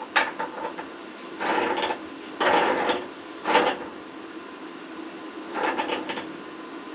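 Plumbing fittings being handled and threaded during a water heater swap: a sharp click, then four short scraping, rattling bursts of metal work, over a steady faint hum.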